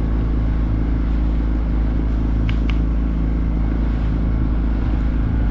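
Honda BF20 four-stroke outboard motor running steadily at speed, driving an inflatable boat.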